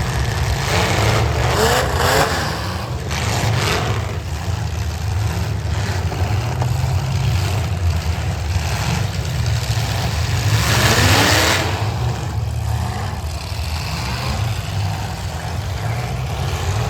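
Demolition derby cars' engines running and revving, with rising pitch sweeps as they accelerate. Louder noisy surges come about two seconds in and again about eleven seconds in.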